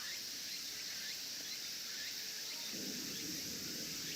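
Outdoor ambience: a steady high-pitched insect drone with short rising bird chirps scattered through it. A low rumble comes in about three quarters of the way through.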